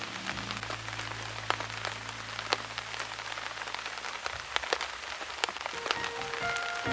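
Steady rain falling, with scattered sharp ticks of drops hitting a surface.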